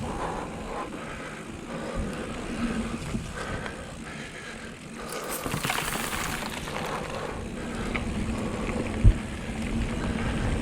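Mountain bike riding down a dirt trail: tyre noise and rattling of the bike, with wind on the microphone. A single sharp thump near the end.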